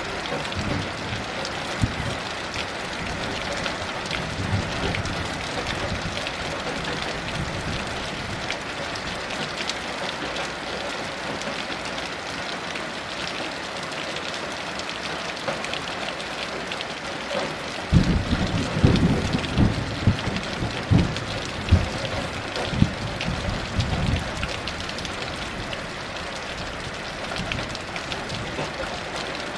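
Heavy rain falling steadily. A little past halfway, a roll of thunder rumbles in several low surges for about six seconds, then fades back under the rain.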